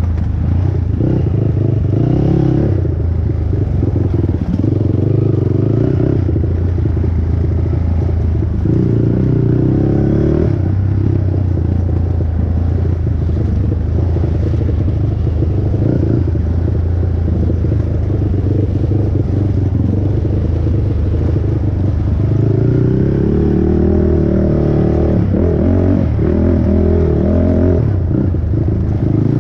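Single-cylinder four-stroke engine of a 450R race quad running hard under race load, its pitch rising and falling as the throttle is worked and gears change, with a steady climb in revs about three quarters of the way through.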